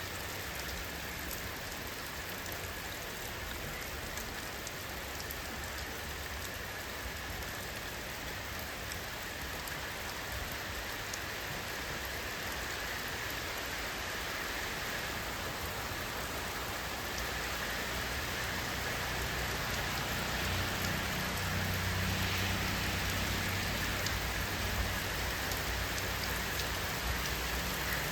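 Steady rainfall, with many fine drop ticks over a continuous hiss. A low rumble swells in underneath during the second half, and the sound grows slightly louder.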